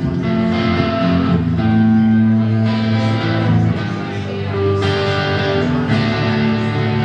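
Guitar playing sustained chords over bass notes, changing chord every second or so.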